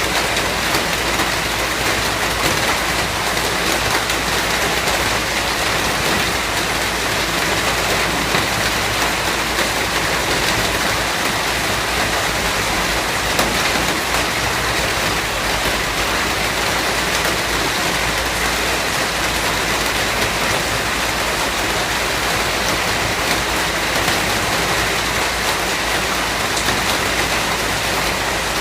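Steady rain falling, an even dense patter.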